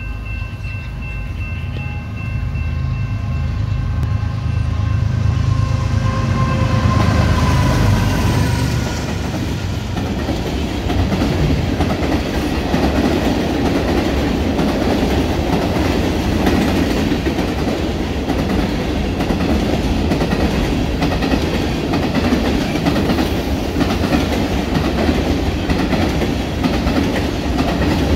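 Freight train passing close by: for the first eight seconds or so the lead locomotives' air horn sounds steadily over the diesels' heavy rumble, then a long string of loaded covered hopper cars rolls past with a dense steel-wheel rumble and a rhythmic clickety-clack over the rail joints.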